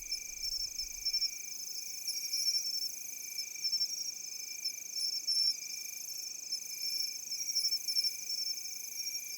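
Chorus of crickets and other grass insects: a steady high trill with shorter chirping trills repeating over it.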